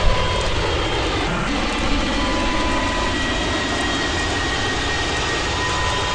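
Fokker 70's Rolls-Royce Tay turbofan jet engines running steadily with a thin high whine over a constant rush of noise.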